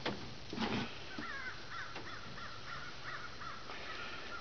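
A bird calling in a quick series of short up-and-down chirps, about three a second, starting about a second in and running to near the end, with a couple of brief rustling clicks at the start.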